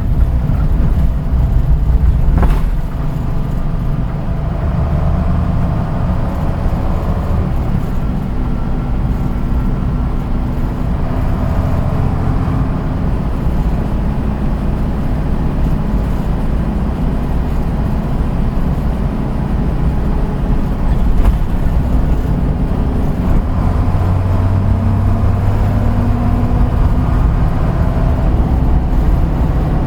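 Kojak Kotsu bus No. 634 under way: its engine and drivetrain run with a steady low rumble, and a faint whine that rises and falls as the bus speeds up and slows. A single sharp click about two and a half seconds in.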